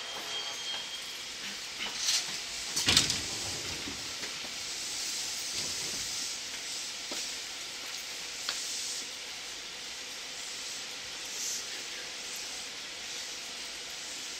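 An electric commuter train standing at a platform, heard from inside its cab: a couple of knocks about two and three seconds in, the second one loudest, like the doors being shut, then a steady hiss of air from the train's pneumatic system.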